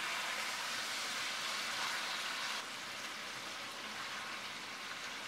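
Rabbit pieces and vegetables sizzling in hot oil in a cast iron pot: a steady frying hiss that drops a little about two and a half seconds in.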